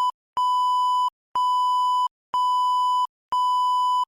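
Censor bleep: a steady electronic beep tone, sounded about once a second, each beep lasting most of a second with dead silence between. It is edited in over the soundtrack.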